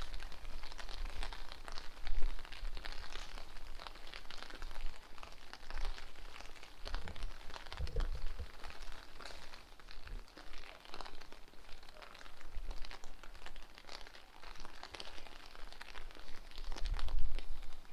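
Steady rain, with many small sharp ticks of drops striking close to the microphone. Gusts of strong wind buffet the microphone with low rumbles now and then, building near the end.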